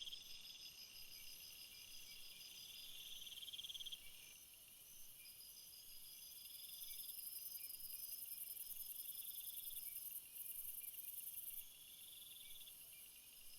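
Several crickets and other field insects trilling in overlapping bouts of a few seconds each, some pitched higher than others, with a very high insect buzz that swells in the middle and drops off abruptly near the end.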